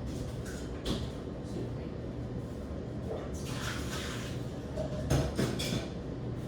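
A few household knocks and clatters, one about a second in and a louder cluster about five seconds in, over a steady low hum.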